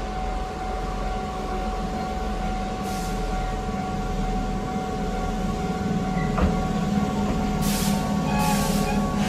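Keihan electric commuter train pulling slowly into a station: a low rumble of wheels and running gear that grows as it approaches, over a steady hum. Short hisses come in about three seconds in and again near the end.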